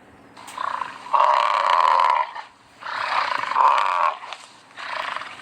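An animal calling: three long calls, each a second or more, the loudest starting about a second in.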